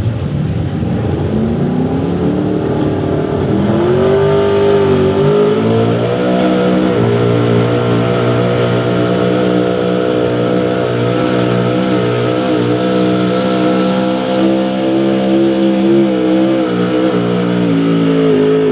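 Small-block V8 engine of a 4x4 pulling truck revving hard as it pulls the sled: the pitch climbs over the first few seconds, holds at high revs with slight wavering, and starts to drop off near the end.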